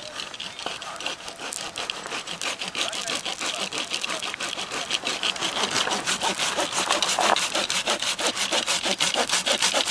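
Hand saw cutting through firewood in quick, regular back-and-forth strokes that grow steadily louder.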